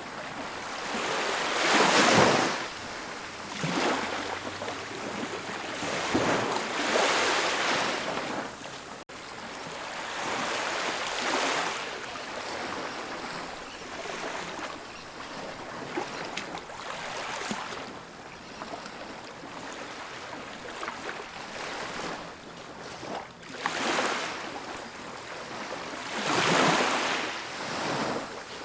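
Ocean waves breaking and washing up on a beach: a steady wash of surf that swells every few seconds as each wave comes in, loudest about two seconds in. A split-second gap in the sound comes about nine seconds in.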